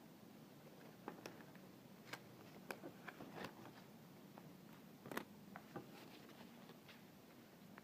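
Faint handling sounds of paper and Scotch tape: scattered sharp clicks and crinkles as the tape is pulled and pressed onto a folded paper wing, the loudest a little past halfway.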